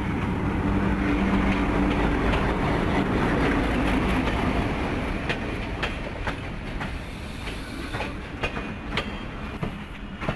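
Pakistan Railways PHA-20 diesel-electric locomotive passing close by as it arrives at a station platform, its engine hum loudest in the first few seconds. Then the coaches roll past, their wheels clicking over the rail joints.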